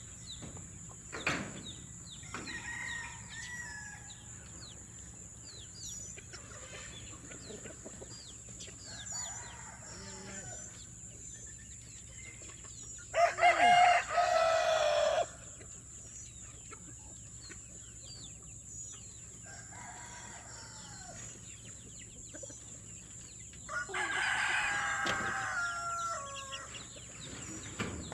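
Chickens clucking, with two rooster crows: a loud one about halfway through and a higher-pitched one near the end. A steady high-pitched whine runs underneath.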